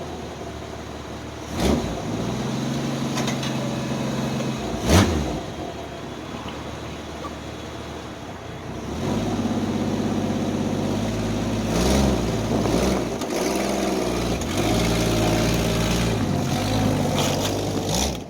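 Carbureted engine of a 1989 Jeep Wrangler YJ running steadily after a jump start, with two sharp thumps in the first five seconds. About nine seconds in the engine gets louder and its pitch rises and falls as the Jeep is driven off.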